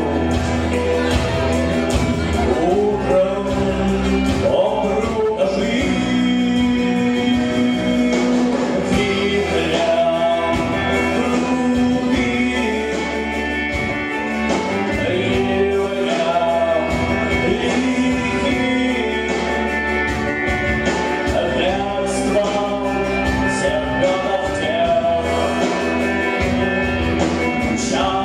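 A band playing a song, with a male voice singing over the instruments; a rough amateur performance.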